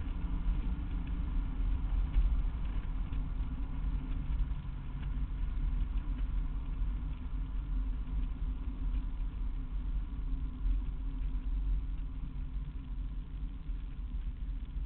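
Engine of a classic car running steadily while driving, heard from inside the cabin, with a constant low rumble of road noise and no sharp revving.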